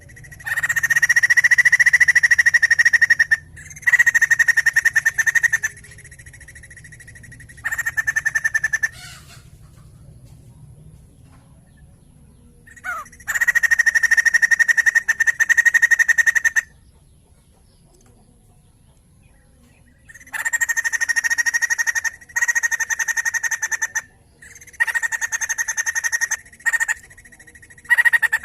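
White-crested laughingthrush calling in loud bursts of rapid chattering notes. The bursts last one to four seconds each and are separated by short pauses.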